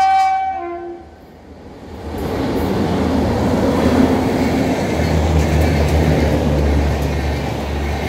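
WAP7 electric locomotive's horn sounds a brief blast at the very start, fading within about a second. From about two seconds in, the locomotive and its coaches rush past at speed: a loud steady roar of wheels on rails.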